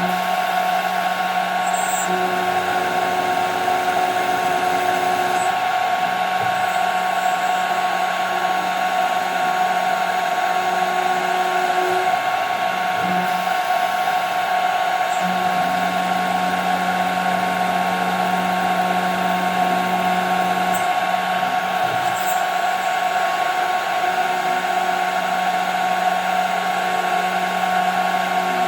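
CNC router spindle running steadily while milling 5 mm plexiglass, a constant high whine over cutting noise, with a lower hum that drops out and returns every few seconds.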